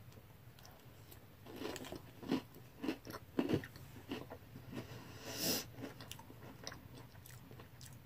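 A person chewing and crunching a mouthful of crisp French toast cereal: a run of sharp crunches begins about a second and a half in and dies away after about six seconds.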